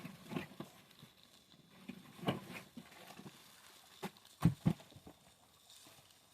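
A few irregular knocks and thuds, the loudest two in quick succession about four and a half seconds in.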